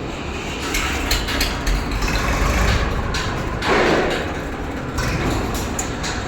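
JCB 3DX Plus backhoe loader's diesel engine running under load, with repeated knocks and clatter through it and a louder rushing burst about halfway through.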